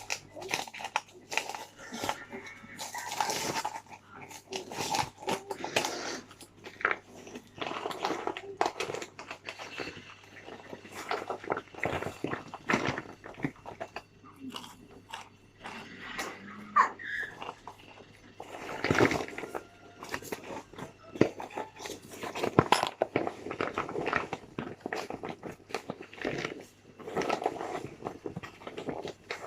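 A person biting and chewing cooked cornstarch chunks close to the microphone, with repeated sharp crunches and crackles.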